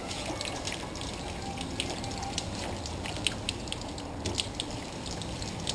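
Wet sanding of sandable primer on a truck's body panel: water trickling and dripping on the surface, with many scattered short clicks.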